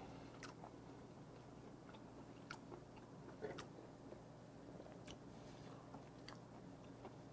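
Faint close-miked chewing of a mouthful of food, with a few soft wet clicks spread through it, over a low steady hum; overall near silence.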